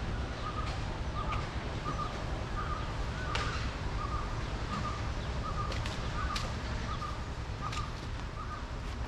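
A bird calling over and over, a short note repeated about every half second, with a few sharp clicks or snaps scattered through.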